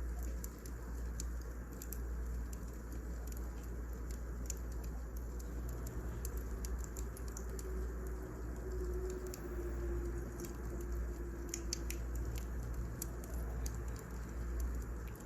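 Burning firewood crackling: irregular sharp snaps and pops over a steady low rumble.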